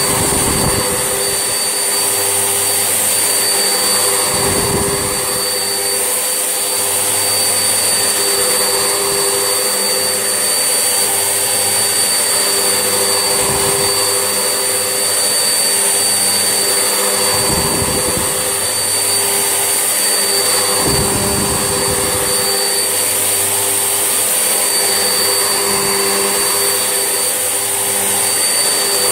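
Vax Essentials vacuum cleaner running steadily with its motor whine and hiss, with a low rushing swell every few seconds.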